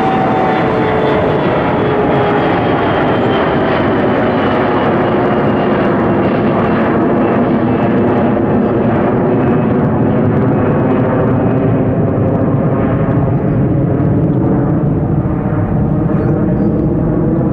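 Regional jet's turbofan engines at takeoff thrust: a loud, steady roar with engine tones running through it, some sliding down in pitch near the start.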